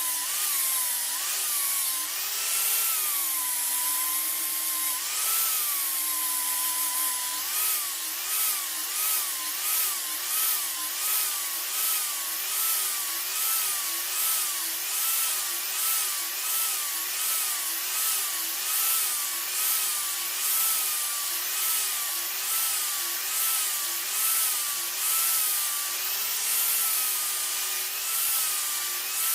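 Power tool running steadily, its pitch rising and falling about once a second as metal is worked against it, with a scraping hiss on each stroke.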